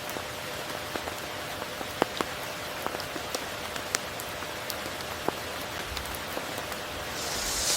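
Steady tropical rain falling, with single drops plinking sharply now and then, the clearest about two seconds in. A brief swell of hissing rain comes near the end.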